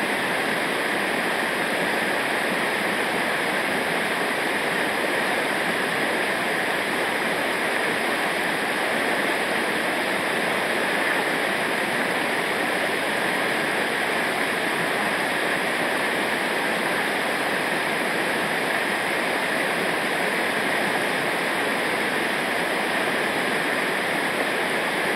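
Fast-flowing river water rushing steadily over rocks, a constant even roar.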